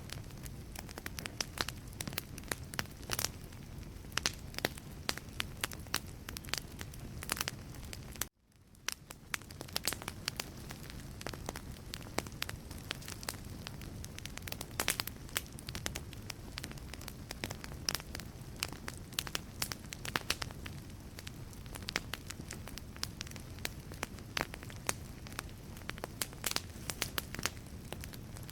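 Wood fire burning in a fireplace, crackling with frequent irregular sharp pops over a steady low rumble. About eight seconds in, the sound drops out for a moment and fades back in.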